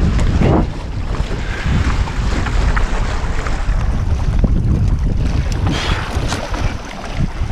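Wind buffeting the microphone in an uneven low rumble, over water rushing and splashing along the hulls of a Hobie 16 catamaran under sail.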